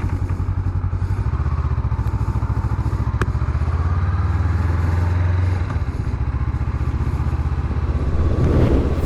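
Honda CB500X's parallel-twin engine running at low revs with an even, steady pulse as the motorcycle sets off, with a single sharp click about three seconds in.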